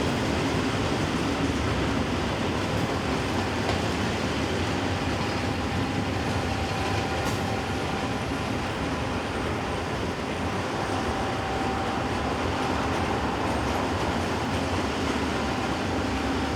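Freight train rolling past on the line: a steady rumble and clatter of wagons, with a faint thin whine at times.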